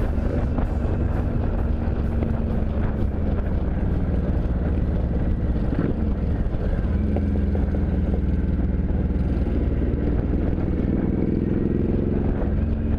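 Motorcycle engine running under way, mixed with rushing wind noise. Its pitch climbs gently over the last few seconds as it speeds up.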